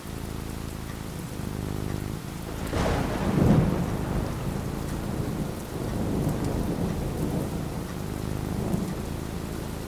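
Steady rain with a roll of thunder that builds about three seconds in, peaks, and rumbles on for several seconds.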